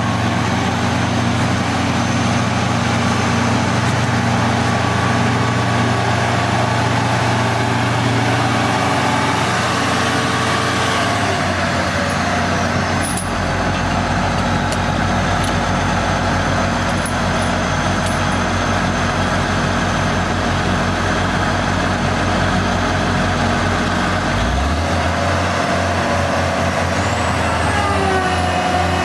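Heavy vehicle engine running steadily at a loud level, its note dropping lower about eleven seconds in and changing again near the end.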